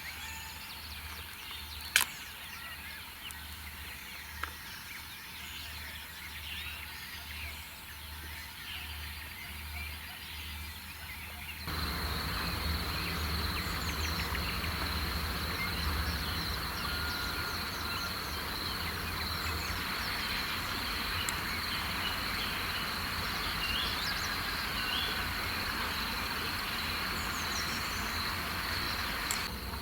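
Outdoor nature ambience: faint bird chirps and a sharp click about two seconds in. About twelve seconds in it switches abruptly to a louder hiss with a steady high insect trill.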